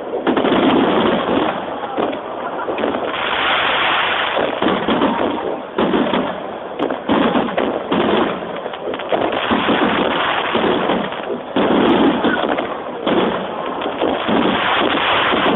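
A fireworks finale: many shells bursting in rapid, overlapping succession, the explosions running almost continuously. The sound is thin and cut off at the top, as heard through a mobile phone's microphone.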